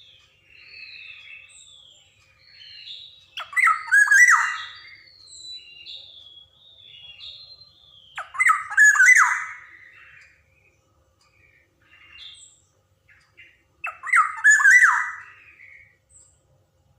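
Black-naped oriole (kepodang emas) calling: three loud harsh calls about five seconds apart, with softer short whistled notes in between.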